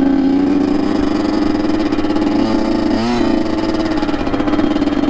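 Honda CR85's 85 cc single-cylinder two-stroke engine running under way at fairly steady revs, with a brief dip and rise in revs about three seconds in.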